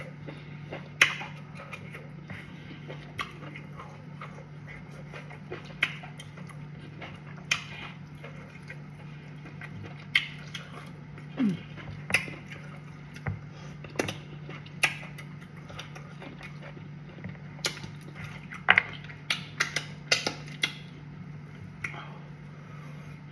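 Mouth sounds of someone eating cassava fufu with soup: chewing with scattered sharp wet clicks and lip smacks, over a steady low hum.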